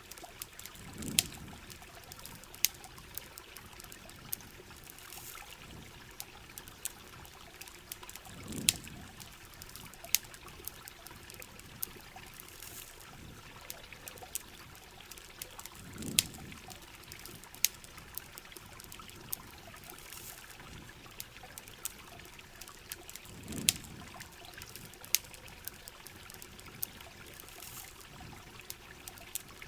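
Campfire crackling with sharp, irregular pops over a steady wash of rain and trickling water. A low swell rises and falls about every seven and a half seconds.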